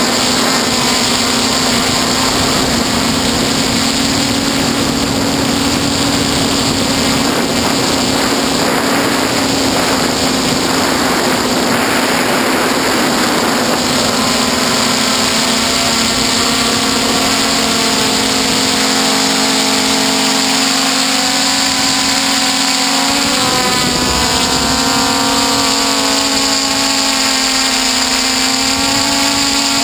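DJI F450 quadcopter's electric motors and propellers buzzing steadily in flight, with a strong hum over a rushing hiss. From about halfway, higher tones waver up and down as the motors change speed.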